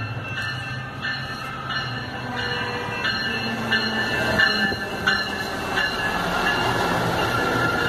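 SMART diesel multiple-unit commuter train pulling slowly past, its engines running with a low hum, while a crossing warning bell rings about every two-thirds of a second. A steady high squeal from the train builds near the end.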